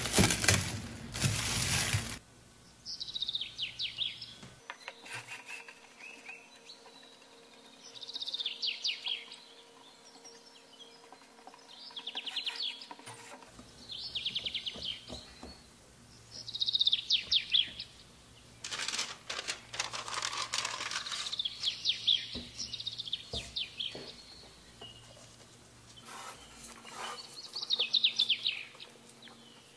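Cling film crinkles loudly for the first two seconds as it is stretched over a bowl, then stops abruptly. After that a small bird chirps in short, high trills every few seconds over a faint steady hum.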